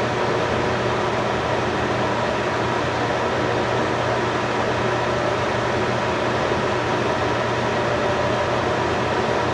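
A steady mechanical hum with a whirring noise underneath, holding at one level and pitch throughout.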